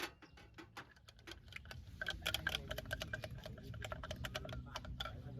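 Rapid irregular light clicks and taps, sparse at first and coming several a second from about two seconds in, over a steady low rumble.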